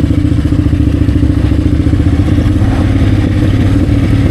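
KTM 990 Adventure R's V-twin engine running steadily as the loaded motorcycle rides down a dirt road.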